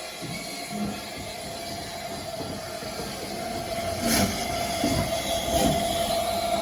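A heritage railway train running along the track, growing louder, with a steady tone above the rumble and a sharp clank about four seconds in.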